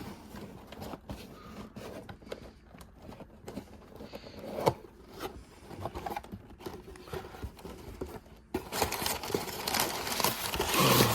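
Toy box and its packaging being opened by hand: scattered scrapes and clicks of handling, then, about two-thirds of the way through, a louder continuous rustling and tearing of packaging.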